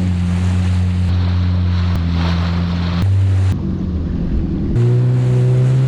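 Yamaha WaveRunner personal watercraft engine running at a steady hum, its pitch stepping higher near the end, with wind and water noise around it.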